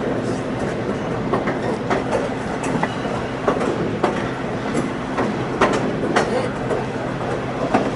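Passenger train running along the track, heard from aboard: a steady rumble with irregular clicks and knocks from the wheels and cars on the rails.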